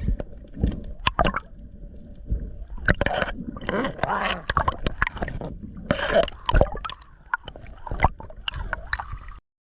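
Water gurgling and splashing in irregular bursts, with scattered sharp clicks.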